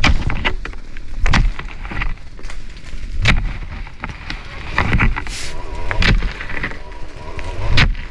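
A run of sharp cracks and knocks, one every second or two, with rustling in between.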